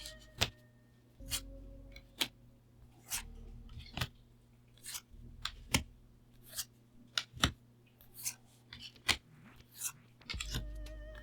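Magic: The Gathering cards and their packaging being handled: a run of sharp, crisp clicks and snaps, about one a second, as cards are flipped and shuffled through and wrappers crinkle.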